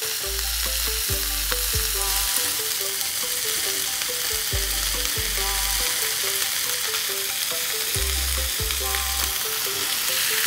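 Chopped celery, carrot and parsley sizzling steadily as they fry in oil with sliced sausage in a pan, turned with a spatula.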